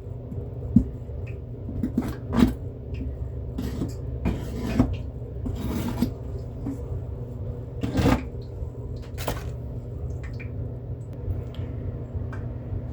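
Scattered knocks, clinks and short scrapes of hard objects being handled, over a steady low hum.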